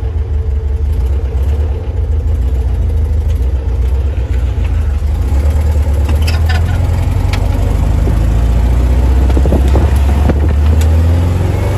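Bradley GT II kit car's engine running steadily while stopped, then pulling away and speeding up, its rumble growing louder and climbing in pitch over the last few seconds. A few sharp clicks come about six seconds in.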